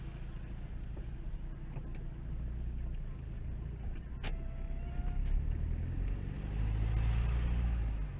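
Diesel car engine running with a steady low rumble that grows louder around five seconds in and again near the end, with a single sharp click about four seconds in.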